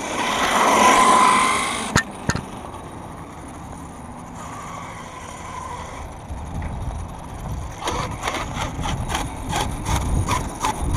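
A 1/5-scale Redcat Rampage MT V3 RC monster truck on 8S power accelerating, its motor whine rising and then fading over the first two seconds, with a sharp knock at two seconds. From about six seconds it rumbles over rough ground with a run of short clicks and knocks, the clunk that the owner puts down to its plastic differential cases.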